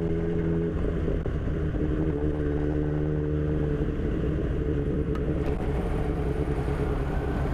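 Kawasaki Z1000's inline-four engine running at a steady pitch under way, over a low rumble of wind and road noise.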